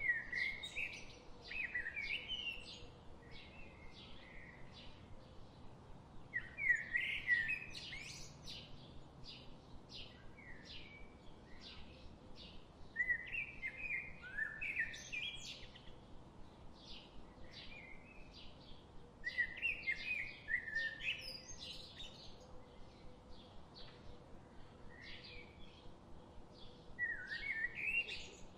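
Songbirds in a forest: one bird sings a short warbling phrase of about two seconds, repeated five times roughly every six and a half seconds, over a steady run of quick, high chirps from other birds.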